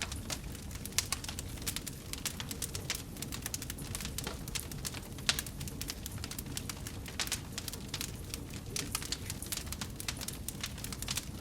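Wood fire burning in a fireplace, crackling with many quick pops over a steady low rumble of flame.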